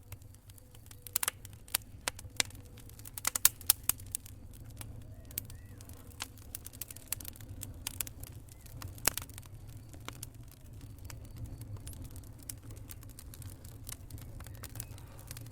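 Campfire crackling: irregular sharp pops and snaps from burning wood, with a cluster of the loudest pops a few seconds in and another single loud pop about nine seconds in, over a steady low rumble of the fire.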